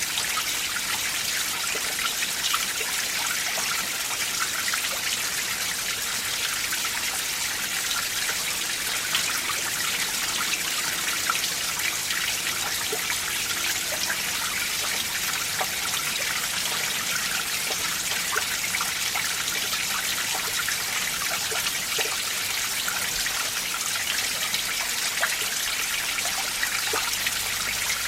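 Winter mountain stream running over rocks: steady rushing and trickling water with many small splashes.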